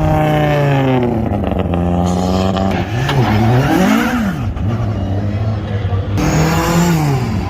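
Group B rally car engine running at a low idle, blipped twice quickly about three and four seconds in, with another short rev near the end.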